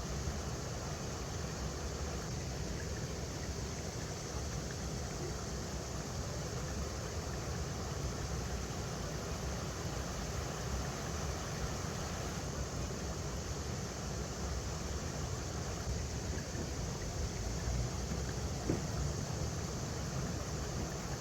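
River water rushing steadily over rocks, with a deep rumble under it; one brief tick near the end.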